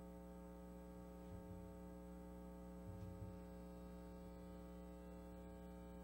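Near silence: a steady electrical mains hum, with a couple of faint low thuds.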